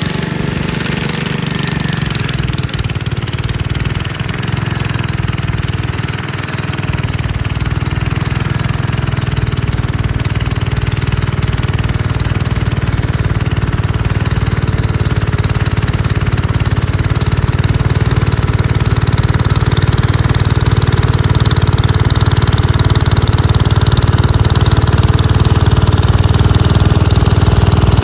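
Gravely Commercial 10A walk-behind tractor's engine running steadily, driving a snowblower attachment. Its pitch wavers a little for the first several seconds, then holds steady while the sound slowly grows louder.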